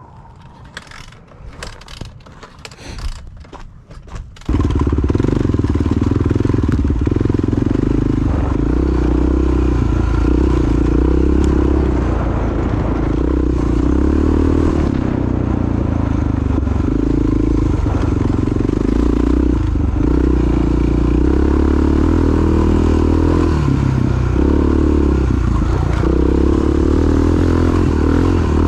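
A few sharp knocks and scrapes, then about four seconds in a single-cylinder dual-sport motorcycle engine cuts in loud and runs under way, its note shifting every second or two as the throttle and gears change.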